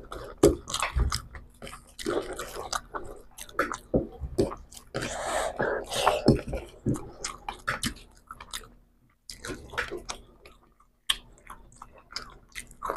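Close chewing and mouth sounds of people eating rice and fried hilsa fish by hand: irregular wet smacks and clicks, with a short lull about nine seconds in.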